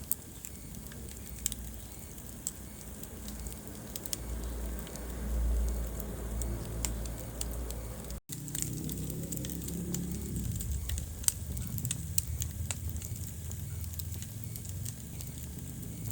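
Wood fire burning in a fireplace, with irregular sharp crackles and pops over the low rumble of the flames. The sound drops out for an instant about halfway through.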